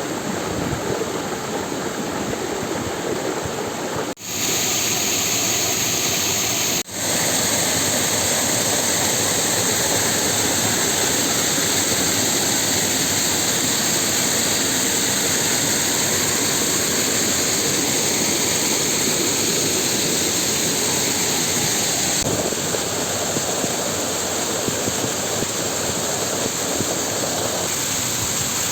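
Waterfall rushing: a steady, loud wash of falling water that cuts out briefly twice, about four and seven seconds in.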